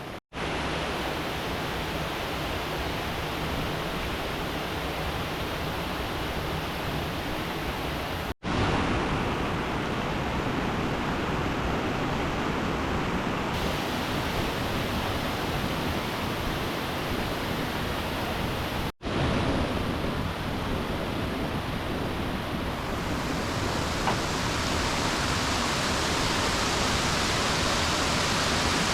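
Steady rush of river water, broken by two brief gaps about a third and two thirds of the way through.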